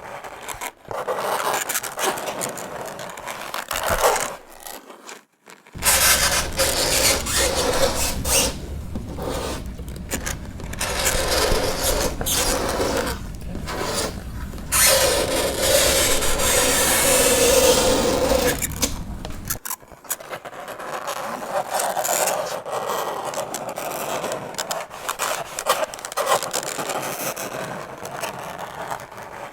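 Fingernails scraping across a chalkboard in repeated strokes broken by short gaps, with a brief pause about five seconds in and a drawn-out squeal partway through.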